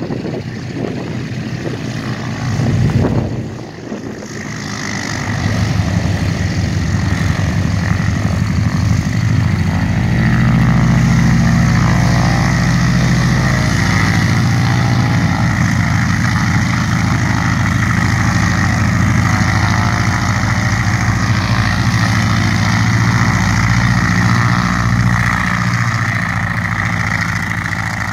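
A vintage propeller airplane's radial piston engine running steadily at low power, as when taxiing or idling. It builds in about four seconds in, after a few seconds of wind buffeting the microphone.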